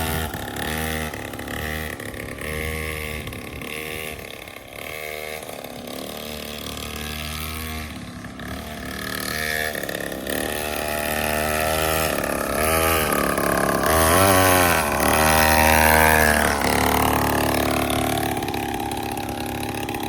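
Small children's dirt bike engine running, its pitch rising and falling again and again as the throttle is blipped in short revs, the biggest surges near the end.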